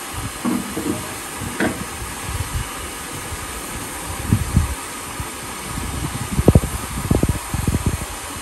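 Ffestiniog Railway narrow-gauge train running: a steady hiss and rumble with irregular low knocks and thumps that come thickest over the last few seconds.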